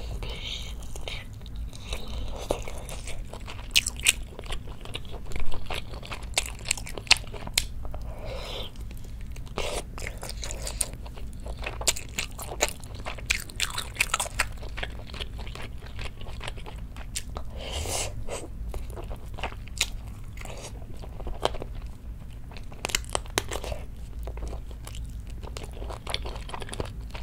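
Close-miked chewing and biting of spicy braised chicken, meat pulled off the bone: wet mouth smacks and sharp little clicks at irregular intervals, over a faint steady low hum.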